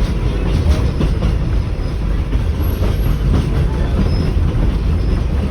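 Heavy low rumble of a running heritage train heard from inside an early-1920s Evans passenger carriage, with scattered faint clicks of the wheels over the track.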